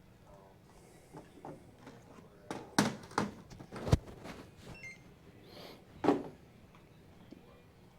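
A few sharp knocks and thuds, the loudest about three and four seconds in and again about six seconds in, with a short electronic beep in between, like a package being handled and scanned at a counter.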